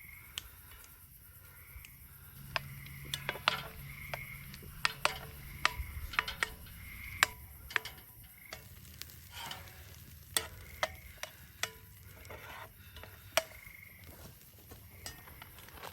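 A utensil stirring Alfredo sauce of butter, milk and roasted garlic in a pan over a campfire, clicking and scraping against the pan many times, over a faint sizzle. A short high chirp recurs every couple of seconds behind it.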